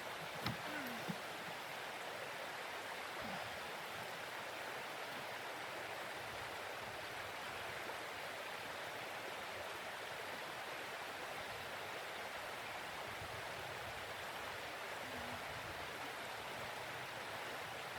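Steady rushing hiss, with a few soft knocks in the first second.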